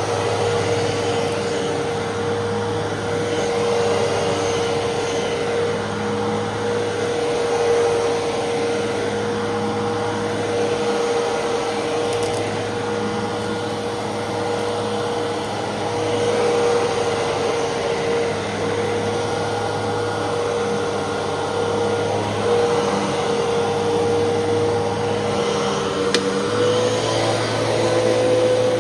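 Fantom Fury upright vacuum cleaner with a 10-amp motor running continuously, a steady motor whine with a slight shift in pitch and gentle swells in loudness as it vacuums.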